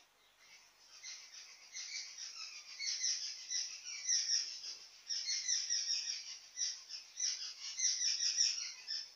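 Small birds chirping rapidly and continuously, a busy high chatter of short repeated calls that builds up over the first couple of seconds.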